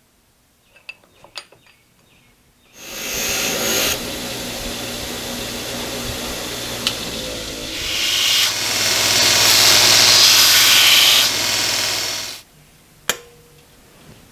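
An electric power tool runs for about ten seconds with a steady hiss and hum, louder in its second half, then stops. A few light clicks come before it and a sharp knock after it.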